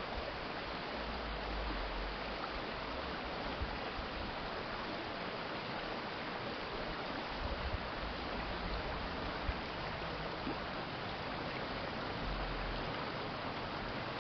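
Steady rushing of water in a small urban stream, with a low rumble that swells and fades a few times.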